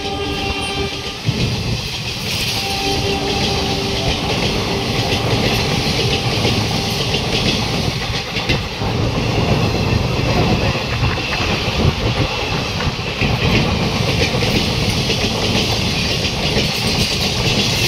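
Passenger train's coaches rushing past close by at high speed: a loud steady rumble with rapid clatter of the wheels on the rails. The locomotive's horn dies away about a second in.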